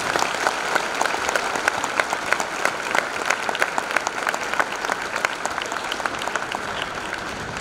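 Audience applauding in a large hall, a dense spread of many hands clapping that slowly fades toward the end.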